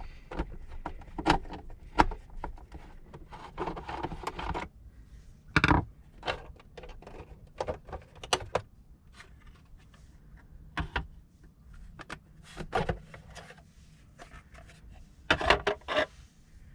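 Irregular clicks, knocks and rubbing as the plastic casing of an Aqualisa digital shower control unit is opened up and handled, with a louder clatter about six seconds in and near the end. A faint steady low hum runs underneath.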